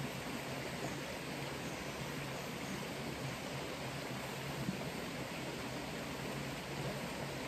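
Steady, even hiss of noise with a faint low hum under it.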